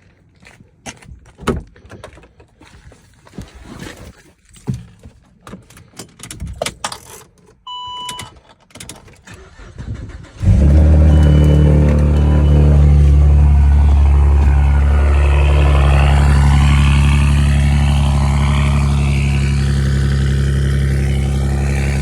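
Scattered clicks and knocks, then a short electronic beep about eight seconds in. About ten seconds in, the engine of a tuned Saab 9-3 running on E85 fires on a cold start and settles into a loud, steady idle.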